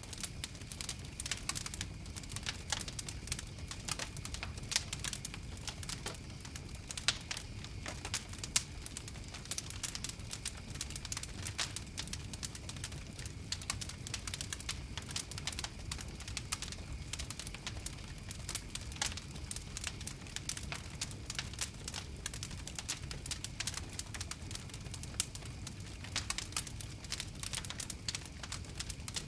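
Wood fire burning with a steady low rumble of flames and a dense, irregular crackle of sharp pops and snaps throughout.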